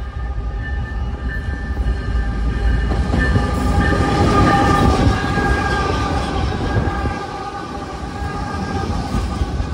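Long freight train passing close by: a heavy rolling rumble with steady high tones ringing over it, loudest about four to five seconds in and easing off after about seven seconds.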